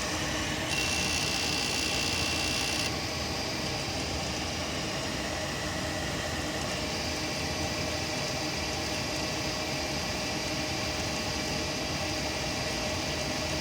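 Gas furnace running: a steady hum and rushing noise with a few held tones. About a second in, a brighter high hiss joins for about two seconds, then stops abruptly.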